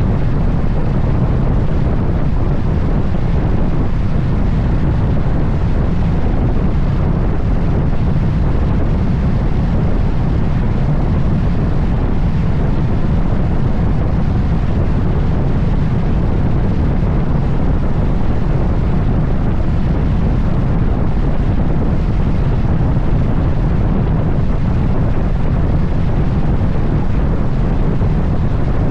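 Wind rushing over the microphone of a moving motorcycle: a steady, loud low rumble with no breaks.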